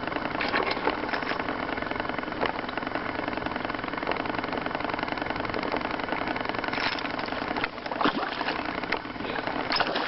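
Boat motor running steadily at idle, a dense even hum. A few brief knocks or splashes stand out in the second half.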